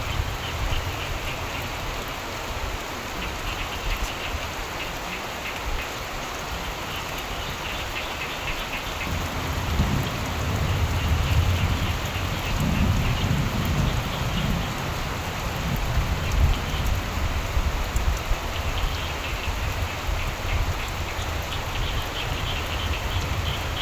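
Steady rain falling, with frogs calling in rapid pulsing trills that come and go. A low rumble of thunder swells up about nine seconds in and rolls on for several seconds.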